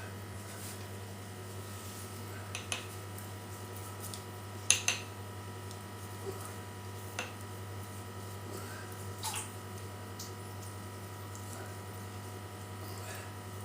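A few short, light clicks and clinks of kitchen utensils and dishes being handled, the loudest pair about five seconds in, over a steady low electrical hum.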